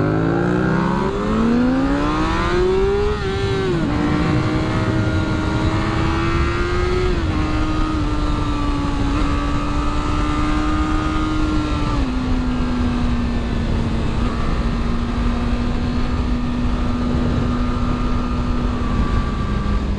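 Honda CBR600RR inline-four engine pulling away, its pitch climbing steeply through the first gears with a drop at each upshift, then running at a steady cruising pitch that steps down with further upshifts about seven and twelve seconds in. A steady rush of wind noise runs under it.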